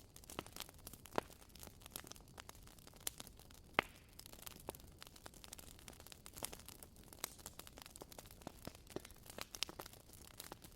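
Burning firewood crackling: a constant scatter of small irregular pops and snaps, with a sharper pop about a second in and the loudest about four seconds in.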